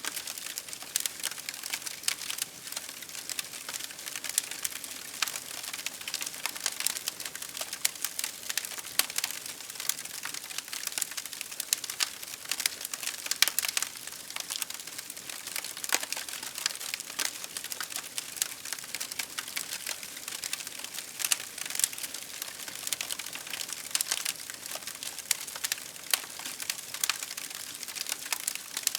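Wood fire crackling steadily: a dense run of irregular sharp pops and snaps over a soft hiss.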